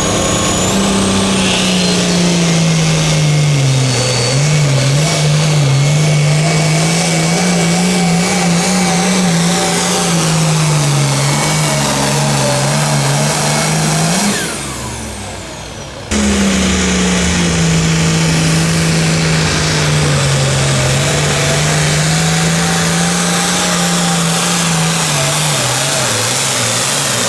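A pulling vehicle's engine at full throttle hauling a sled, its pitch sagging and recovering as the load builds. About 14 seconds in it lets off and winds down. A couple of seconds later another engine starts abruptly, pulling under load in the same way.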